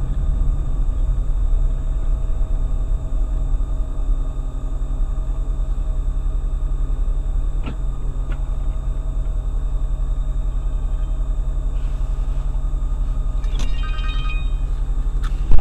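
Steady low rumble of a car driving, road and engine noise picked up inside the vehicle, with a few faint clicks along the way.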